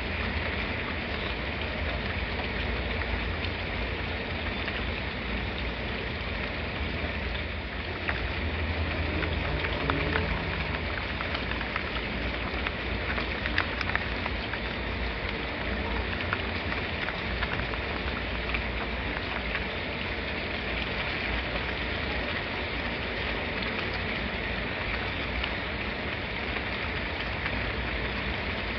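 Steady rain falling, an even hiss with scattered small drop ticks over a low rumble. The rumble swells a little about eight seconds in.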